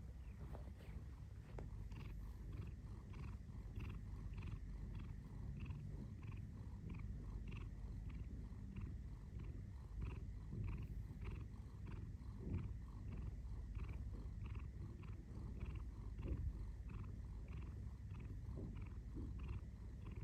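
Domestic cat purring, a steady low rumble that pulses evenly about twice a second.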